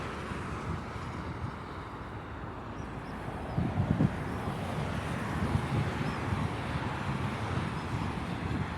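Vehicle engines on a road heard outdoors, with wind rumbling on the microphone; the low rumble swells briefly about three and a half seconds in.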